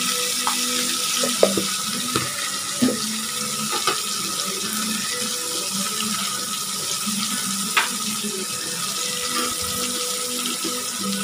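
Raw chicken pieces frying in hot oil in a pan: a steady sizzling hiss, with a few light clicks of a steel spoon against the pan.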